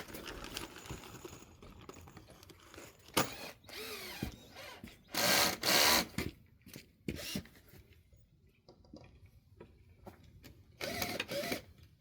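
Cordless drill driving screws into pallet wood in short whirring bursts, twice about five seconds in and again near the end, with a sharp knock a few seconds in.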